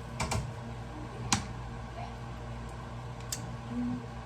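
A few short, sharp clicks and knocks over a steady low hum, the sharpest about a second in.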